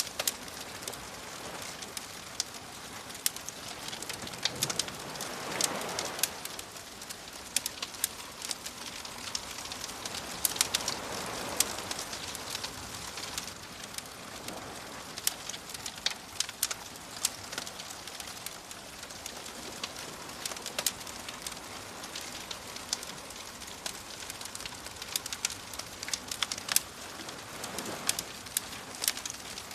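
Wood fire crackling with frequent sharp pops, over soft ocean waves that swell and wash in about three times.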